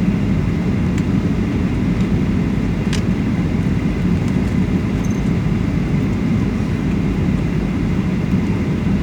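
Airliner cabin noise in flight: the steady low rush of jet engines and airflow heard from inside the passenger cabin. A single faint click about three seconds in.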